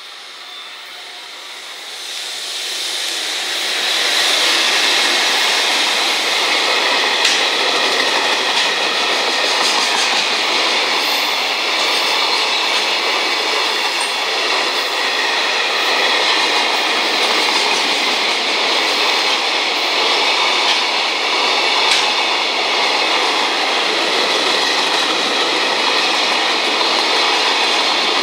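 A freight train hauled by an EF210 electric locomotive passing close by, growing louder over the first four seconds as it arrives, then a long string of container wagons rolling past loud and steady.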